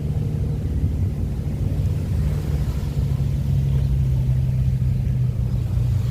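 A steady low engine drone over a low rumble, its pitch dipping slightly about five seconds in.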